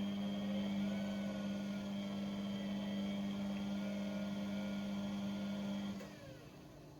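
Household washing appliance's pump motor humming steadily with water churning, then cutting off about six seconds in, a pause between stages of the wash cycle.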